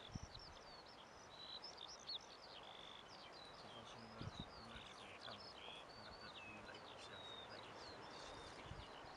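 Faint birdsong: a busy run of short, quick chirps and whistles from several small birds. There is a soft low thump near the start and another about four seconds in.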